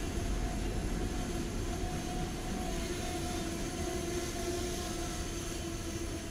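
A train running by, heard as a steady low rumble with a faint steady hum through it, a little stronger in the middle.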